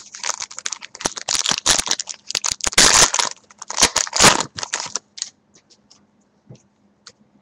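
A trading-card pack's wrapper being torn open and crinkled by hand: dense crackling and rustling for about five seconds, then only a few scattered ticks.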